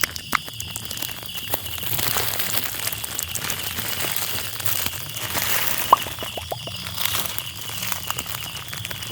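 Crinkling and rustling of an ASMR trigger, a noisy rustle with scattered small clicks that grows louder about two seconds in, and a few short, soft pitched blips around the middle.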